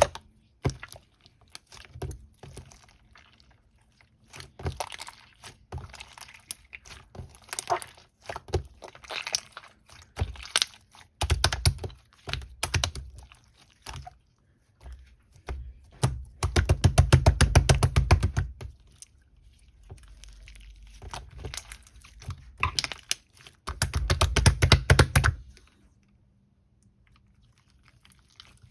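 Slime being squished and worked by hand, with crackly clicks and pops of trapped air. Twice in the second half the squeezing turns into a long run of rapid, loud clicking.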